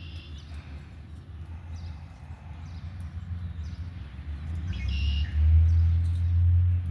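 Outdoor background: a low rumble that swells louder near the end, with a couple of brief bird chirps.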